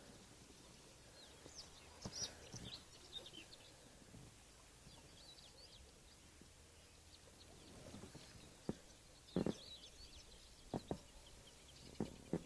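Faint birdsong: scattered short, high chirps from small birds. A few soft knocks come in the second half.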